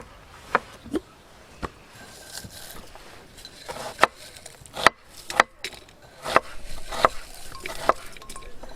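A series of about nine sharp, irregular knocks and clacks, like hard objects being chopped or set down.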